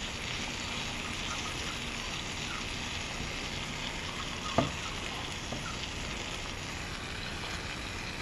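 Perogies sizzling steadily in a frying pan. About halfway through, the slotted spatula knocks sharply against the pan once, with a lighter tap a second later.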